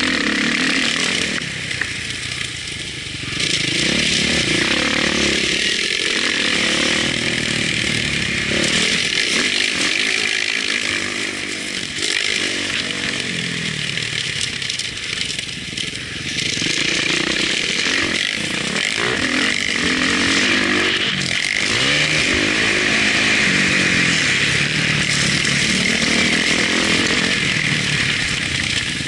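Motocross bike's engine revving up and dropping back again and again as the rider accelerates, shifts and rolls off through the corners, recorded onboard with a steady high hiss over it.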